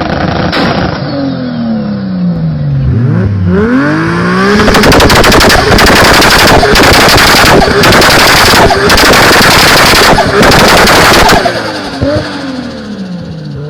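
Turbocharged Toyota Supra Mk4 inline-six revved up and held at full throttle, very loud with a rapid, rattling crackle, dipping briefly several times before backing off about eleven seconds in.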